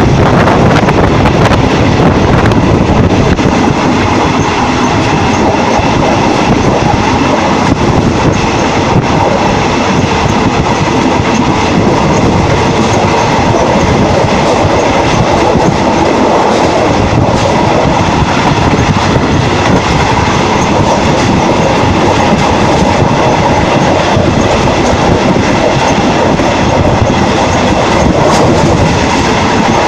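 Train running steadily along the track, heard from a carriage window: a loud, even rumble and rush of wheels on rails and air, with a few sharp clicks.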